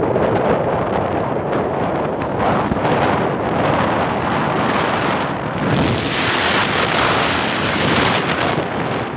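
Wind rushing and buffeting over the microphone of a camera on a moving motorcycle, a loud steady rush that grows brighter and stronger for a couple of seconds about two-thirds of the way through.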